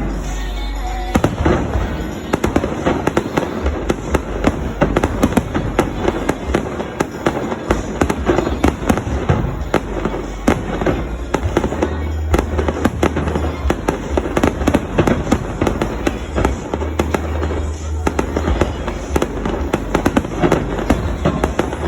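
Fireworks show barrage: a dense, continuous run of sharp bangs and crackles from aerial shells bursting in quick succession, with deep booms underneath.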